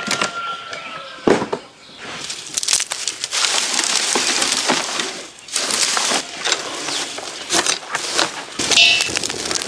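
Crackling and rustling, dense with small clicks and crunches, with a short break about five seconds in.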